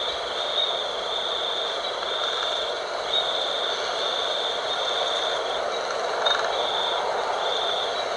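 Night wind blowing steadily, with a high trill that repeats about once a second.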